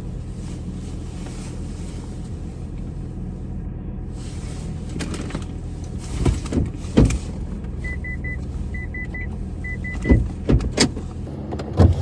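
Steady low hum inside a car's cabin, broken by a few sharp thumps, with three quick sets of three short, high electronic beeps from the car about two thirds of the way in.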